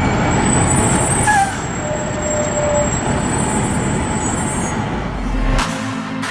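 Heavy vehicle and road traffic noise with a thin high squeal. About five and a half seconds in it cuts to music.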